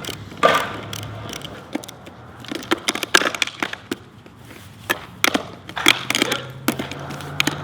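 Grip tape being worked on a skateboard deck: a run of irregular crackling scrapes and sharp clicks.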